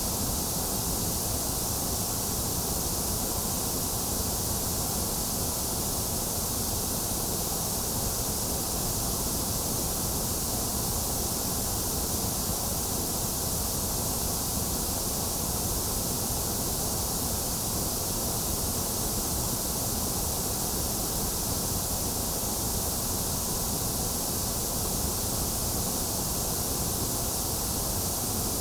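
Steady white noise for baby sleep: an even, unchanging hiss, strongest in the high treble, with a hollow in the upper middle of the range.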